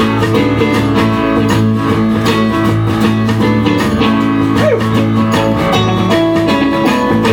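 Live band playing a pop-rock song: strummed guitars over sustained held chords, with a steady beat.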